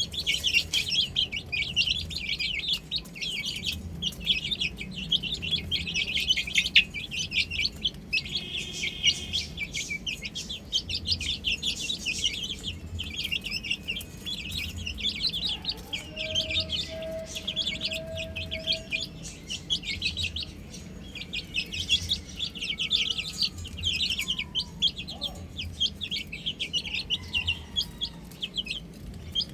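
A flock of baby chicks peeping continuously, many high, rapid, overlapping peeps. A lower drawn-out call sounds for about three seconds near the middle.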